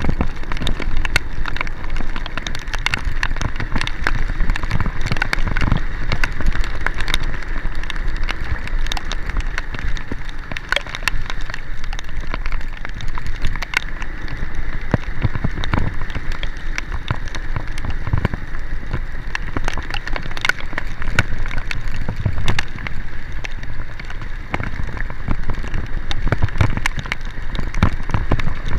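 Heavy rain falling: a steady, dense patter of drops hitting a surface, with a low rumble underneath.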